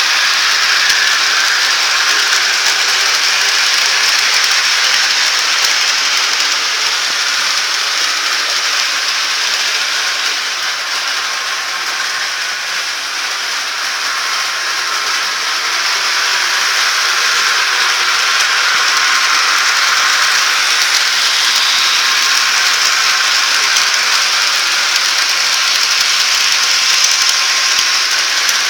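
HO-scale model train running on its track: a steady rattling hiss of wheels and a small motor.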